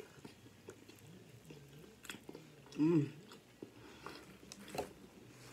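Close-miked chewing and biting of someone eating a bacon cheeseburger, with small wet mouth clicks. About three seconds in comes a short hummed vocal sound that rises and falls in pitch, the loudest moment.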